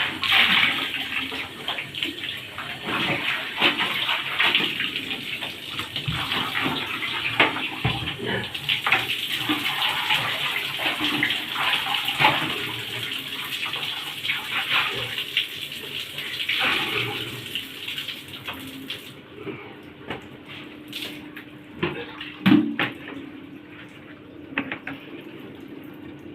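Clothes being washed by hand in a tub of water: irregular splashing and sloshing, growing quieter about two-thirds of the way through, with a few sharp knocks near the end.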